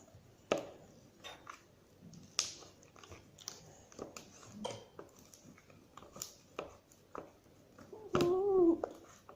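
Sticky homemade glue slime being squeezed and kneaded by hand, giving irregular wet clicks and squelches. A short pitched hum-like sound comes near the end.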